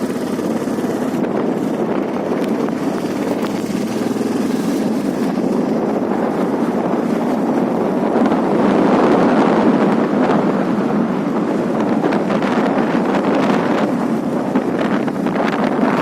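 Wind rushing and buffeting over the microphone of a moving motorcycle, over steady engine and road noise, growing gustier in the second half.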